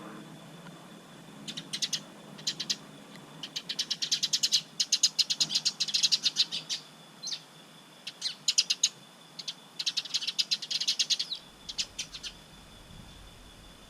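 Small garden bird calling in several bursts of rapid, short clicking notes, about ten a second.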